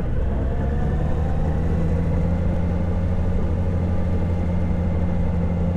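Honda Gold Wing motorcycle cruising at a steady speed: an even, low engine hum with a rushing noise over it.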